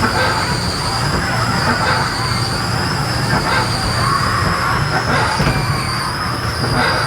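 Whirly Birds ride car rolling along its overhead steel track: a steady rumble of wheels on rail with a constant high squeal.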